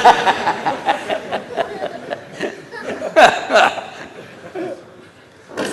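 Audience laughing and chattering in a large hall, with a sharp knock near the end.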